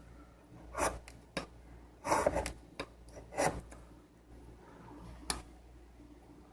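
Steel blade of a serrated steak knife drawn across a sharpener in about three short grinding strokes, with a few sharp ticks between them, as a nick is worked out of the edge.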